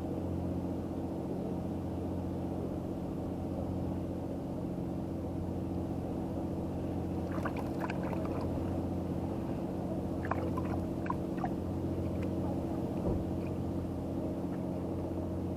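A boat engine running steadily at idle, a low even hum, with a few faint clicks and knocks around the middle.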